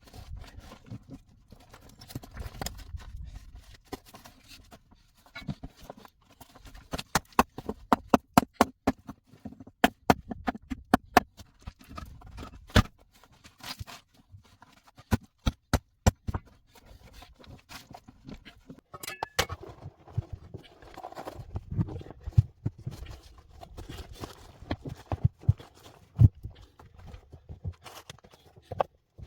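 Sharp knocks and clicks come in quick runs, thickest through the middle, with rustling and scraping between them: hand work such as striking or handling hard objects.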